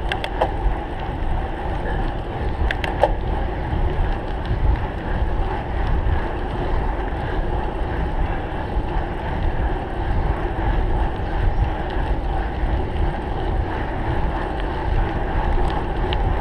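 Wind buffeting the microphone of a camera riding on a cyclocross bike under way, over a steady hum from the moving bike, with a few sharp clicks about three seconds in and near the end.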